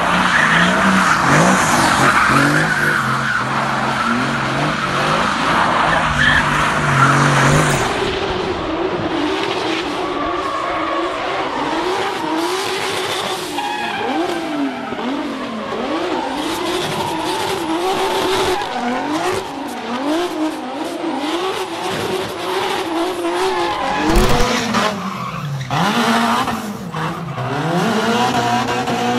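Drift cars' engines held at high revs, with tyres sliding and spinning. For the first seven or so seconds one engine holds a fairly steady high note over a hiss; after that the revs rise and fall again and again, about once a second, as the throttle is pulsed through the slide.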